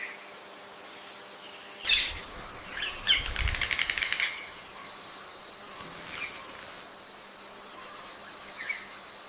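Rainforest birds calling: a loud call about two seconds in, then a fast rattling run of notes for about a second, and a few softer chirps later. A steady high-pitched drone sets in halfway through.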